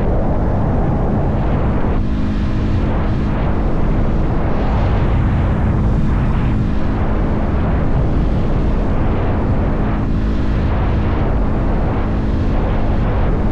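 Motorcycle engine running at a steady cruising speed, its tone even, under heavy wind rush on the microphone.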